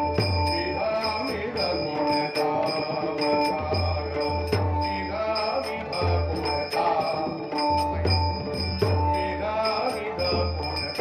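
Devotional bhajan music: held notes over a steady beat of low drum strokes, with small hand cymbals clicking and jingling in rhythm.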